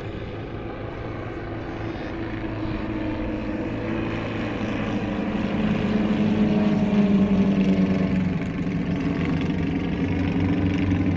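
Formation of Druine Turbulent single-seat light aircraft flying past, their small Volkswagen-based piston engines and propellers droning. The sound grows louder to a peak around the middle, then the engine pitch slides lower as the aircraft pass.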